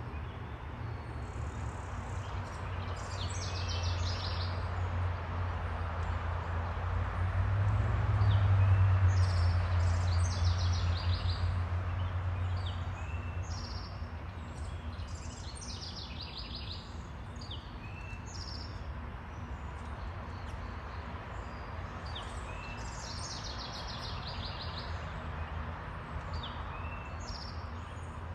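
Small birds chirping and trilling in repeated short calls throughout. A low rumble swells and fades during the first half and is the loudest sound there.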